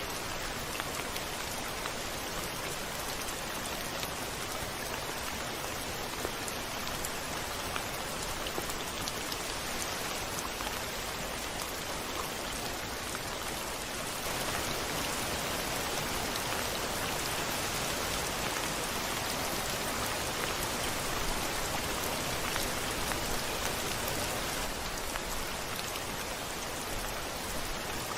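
Steady rain falling on a window, an even hiss with scattered drop ticks. It gets a little louder about halfway through, then eases back near the end.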